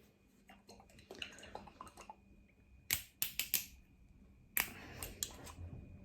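Sharp clicks and light knocks from a bottle and cutlery being handled at the table: a quick cluster of four about three seconds in, then a few more near five seconds.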